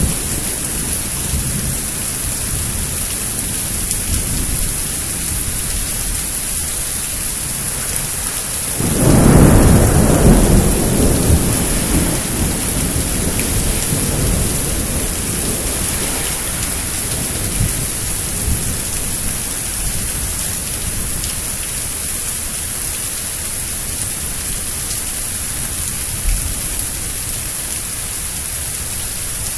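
Steady rain hissing down during a thunderstorm, with a loud roll of thunder breaking about nine seconds in and rumbling away over the following few seconds.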